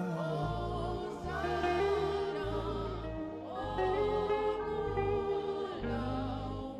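Saxophone playing a slow gospel worship melody in long, held notes with slight vibrato and gliding between pitches, over sustained keyboard and bass chords.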